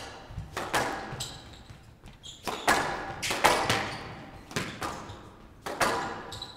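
A squash rally: the ball cracking sharply off rackets and the court walls at an irregular pace, each hit ringing in the hall.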